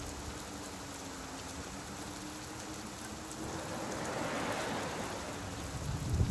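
Steady rain falling, with a swell of hissing noise around the middle and a low rumble building near the end.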